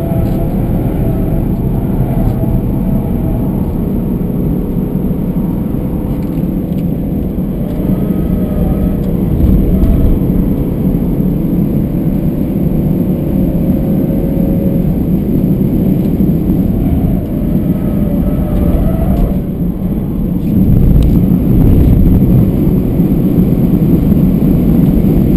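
BMW 320d Touring's four-cylinder turbodiesel engine driven hard on a race track, heard from inside the cabin together with tyre and wind noise. The engine note rises and falls, dips briefly about twenty seconds in, then pulls louder again.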